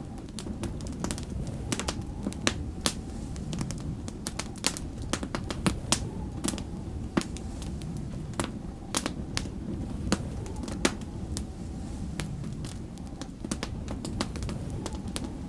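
Wood fire crackling, with irregular sharp pops and snaps several times a second, over a steady low rumble of snowstorm wind.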